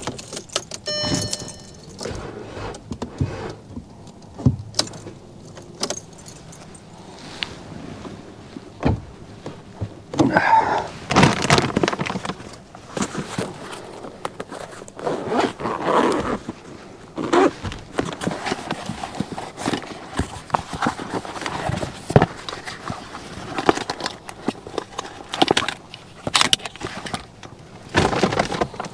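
Irregular clinks, knocks and thunks of small objects being handled, with a jingling like keys and louder bursts of clatter now and then.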